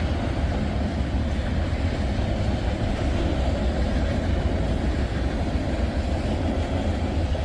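A long freight train's cars, containers and tank cars, rolling steadily past with a continuous deep rumble of wheels on rail.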